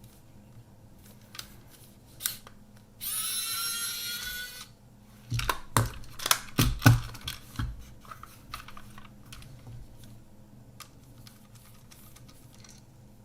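Small hand-tool work on a plastic Kodak Ektar H35N half-frame camera. Three seconds in comes a squeaky scrape of about a second and a half, then a cluster of clicks and knocks as the body and tools are handled, and a few light ticks after.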